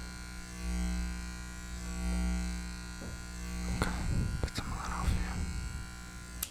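Electric hair clippers running with a steady buzz that swells louder and softer, with some handling noise in the second half, then switched off abruptly at the end.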